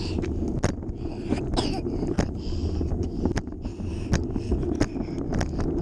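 Wind buffeting the microphone over a steady low rumble of riding along, with frequent sharp clicks and rattles.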